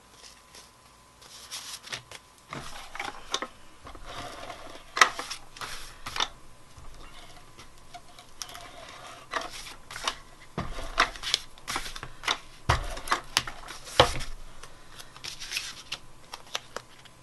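Cardstock being handled and stuck down by hand on a work surface: paper rustling with a string of irregular sharp taps and clicks, the loudest in the middle and later part.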